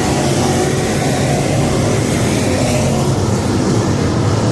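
Dirt-track modified race car engines running hard on the track, a loud steady drone.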